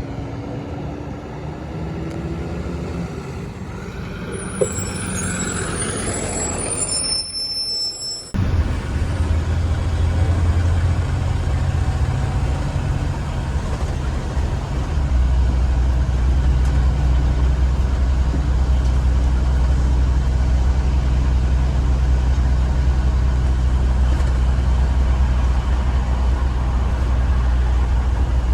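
2015 Blue Bird Vision school bus engine running under way, with a rising whine in the first few seconds. About eight seconds in the steady drone suddenly becomes much louder and deeper, then deepens again about halfway through.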